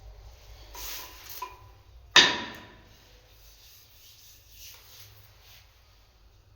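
A short rubbing, brushing sound, then a single sharp smack about two seconds in that dies away quickly.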